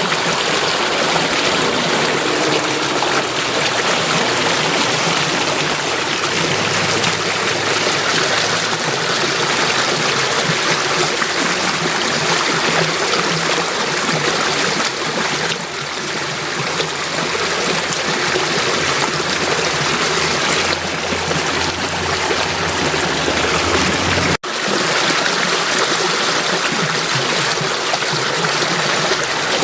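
Flowing stream water, a steady rushing and trickling. It breaks off for an instant about 24 seconds in, then carries on.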